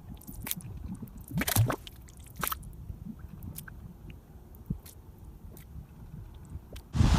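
Irregular wet pops and drips over a low rumble, like liquid or mud bubbling, strongest about one and a half and two and a half seconds in. Near the end a loud, even rushing hiss cuts in.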